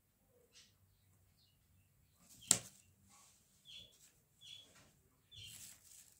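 A pet bird calling in short, repeated falling chirps, about one every three-quarters of a second, starting a little past halfway. A single sharp click shortly before the chirps begin is the loudest sound.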